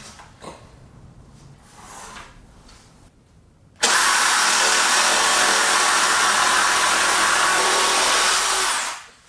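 A power tool starts abruptly about four seconds in, runs at a steady, unchanging speed for about five seconds, then winds down. It is preceded by faint handling knocks.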